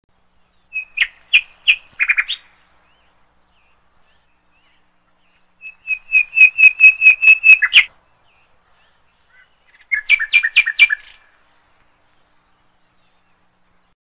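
A bird chirping in three short bouts of quick, evenly spaced high chirps, with pauses of a few seconds between the bouts.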